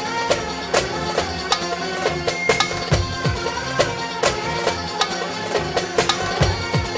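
Instrumental break of Albanian folk song music: a melody line over a steady, regular drum beat, with no singing.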